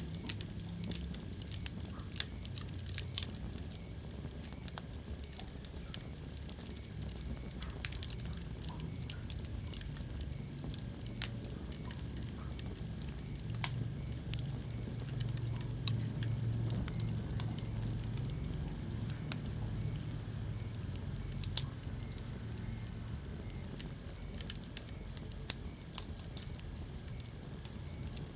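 Wood fire crackling in a fireplace, with frequent irregular sharp pops over a steady low rumble.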